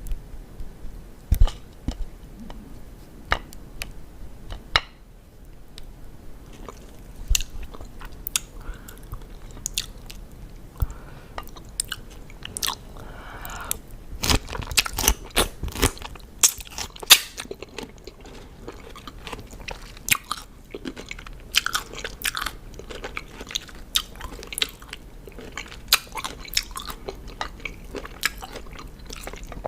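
Close-miked crunching and chewing of raw cucumber: irregular crisp crackles as bites are chewed, thickest in the second half.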